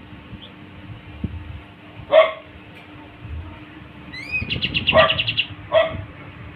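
A kapas tembak songbird whistles two rising notes, then a fast trill of about a dozen high notes lasting about a second. Two short, sharp barks, the louder one about two seconds in, come before and after the trill.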